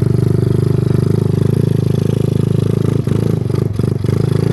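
125cc single-cylinder engine of a small ATV running steadily at low speed while the quad is ridden slowly, with a few brief knocks about three to four seconds in.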